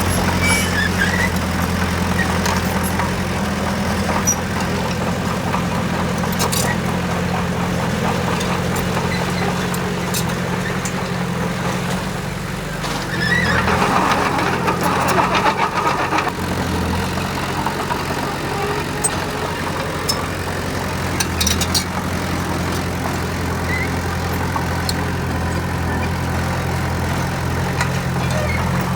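Diesel engine of heavy construction machinery running steadily. About halfway through, a louder, higher-pitched sound rises over it for roughly three seconds, and a few short clicks come and go.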